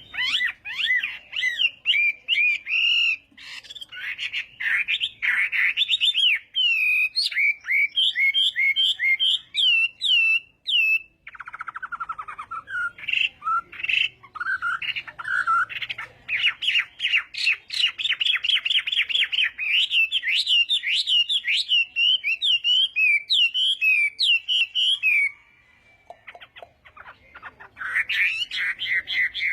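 Chinese hwamei (hoạ mi) singing: a long run of rapid, varied whistled phrases and trills, with a harsh buzzy note about a third of the way through and a short pause near the end before the song starts again.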